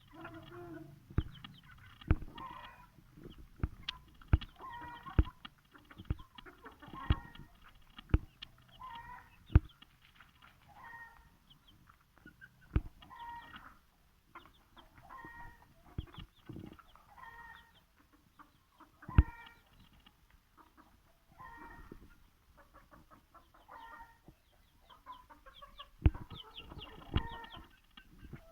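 Aseel chickens clucking in short, repeated calls about once a second. Sharp knocks or taps sound among them at irregular intervals and are the loudest sounds.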